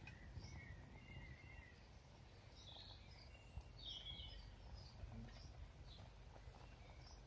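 Near silence: faint scattered bird chirps over a low, steady outdoor rumble.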